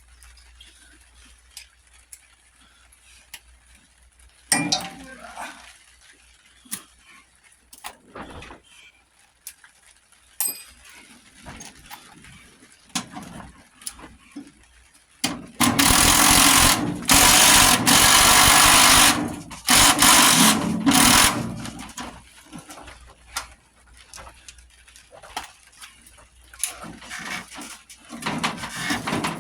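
A power tool runs in several loud bursts around the middle, separated by short breaks, while parts of an old lawn tractor are being taken off. Scattered clicks and knocks of tools on metal come before and after.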